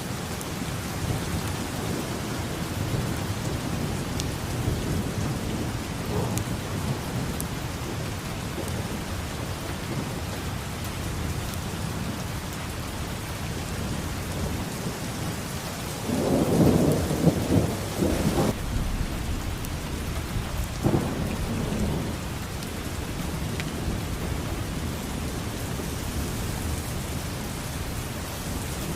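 Steady rain with rumbles of thunder. Just over halfway through, a louder, deep thunder rumble swells for about two seconds and stops suddenly, and a shorter one follows about two seconds later.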